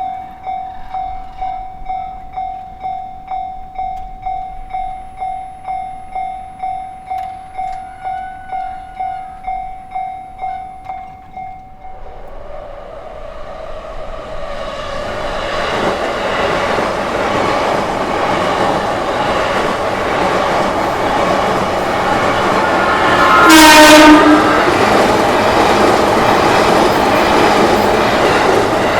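Japanese level-crossing alarm ringing its electronic bell at about two strokes a second, dropping away about 12 seconds in as a JR Tokaido Line train approaches and runs through the crossing with a rising rush of wheel and rail noise. About three-quarters of the way in the train sounds a short horn blast, the loudest moment.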